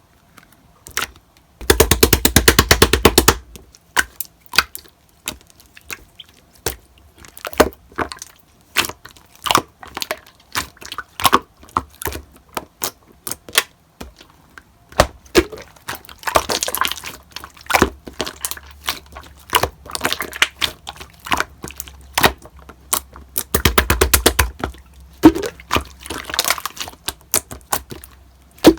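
Slime being squeezed and pressed by hand, with sticky clicks and air-bubble pops that come irregularly. There are two short spells of fast crackling, one about two seconds in and one near the end.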